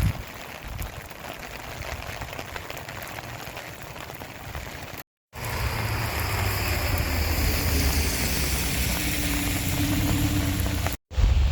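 Steady rain falling and pattering on surfaces. After a cut about five seconds in, it is louder, with a low rumble under the rain.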